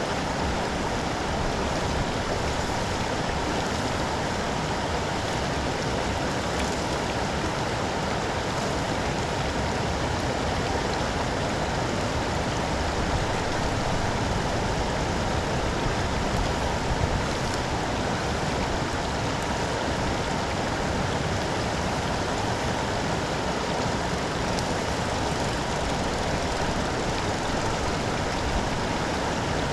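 Steady rush of storm water running into a street drain, with no breaks or single events.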